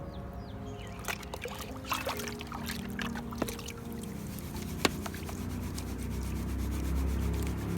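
Gravel and sand scraping and swishing in a gold pan, with sharp clicks of small stones against the pan, over background music.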